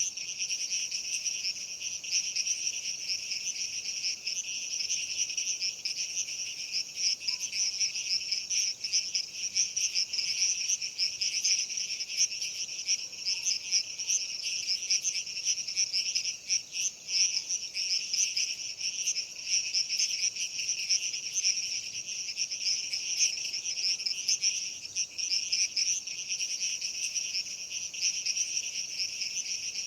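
Dense insect chorus: a continuous, shrill, high trilling that holds steady without pauses.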